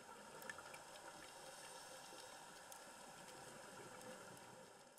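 Faint underwater ambience: a soft hiss of water with scattered faint crackles and clicks.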